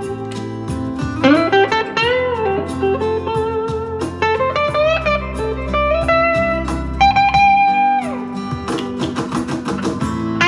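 Electric guitar lead from a Squier Jaguar's single-coil neck pickup, played through a JHS NotaKlon overdrive pedal into a Vox AC10 amp. The lines are full of string bends and vibrato over a backing track with steady bass notes.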